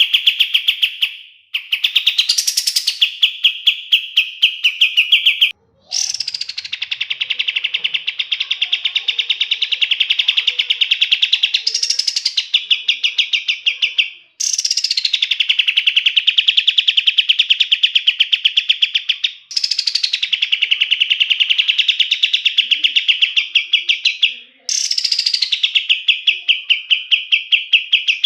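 Kapas tembak songbird singing long, rapid rolling trills, each phrase opening with a higher note that drops into the trill and lasting several seconds, with brief breaks between phrases.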